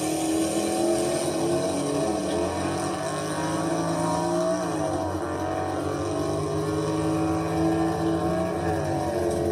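Car engine running steadily, its pitch dipping and rising again a couple of times as the revs change.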